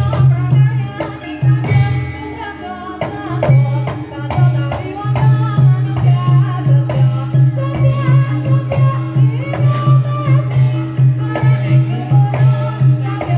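Live traditional Javanese folk music of the kind that accompanies reog and kuda lumping: hand-drum beats over a steady pulsing rhythm, with a melodic line above.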